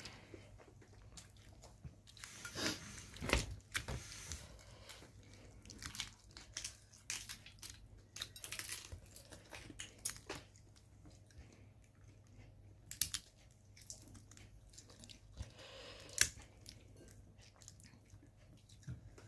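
Chewing and eating by hand: scattered short wet clicks and crunches of mouth and fingers working on butter shrimp and rice, over a faint steady low hum.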